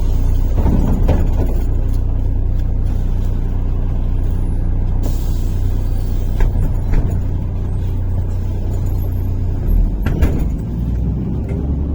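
MAZ-103 city bus under way, heard from inside the passenger cabin: a steady engine and drivetrain drone with a few short knocks and rattles. The engine note shifts about ten seconds in.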